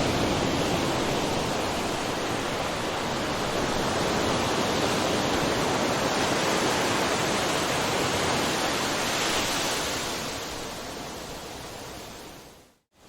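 Ocean waves, a steady rushing wash of surf. Near the end it fades away to a brief moment of complete silence before swelling back.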